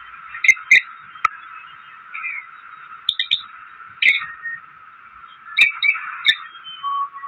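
A parrot chirping and squawking in short sharp calls about every second, with a few closer-spaced calls near the start and again in the second half.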